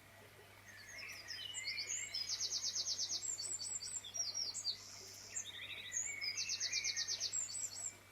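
A songbird singing two phrases of quick high chirps, each with a fast, evenly pulsed trill in the middle.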